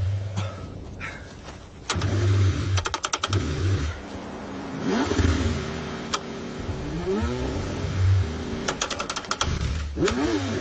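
Car engine cranking over repeatedly in freezing cold, struggling to start, in a series of separate attempts with stretches of rapid ticking.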